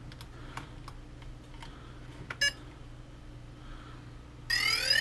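A few faint clicks, then a short electronic beep about halfway and a louder rising electronic tone near the end, like device start-up or status beeps.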